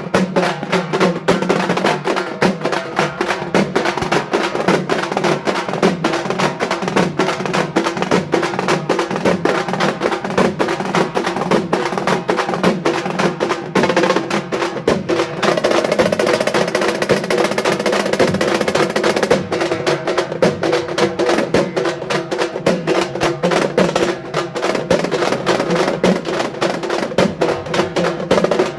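Halgi frame drums played together with sticks in a jugalbandi, a fast and unbroken run of sharp strokes over the ringing of the drumheads.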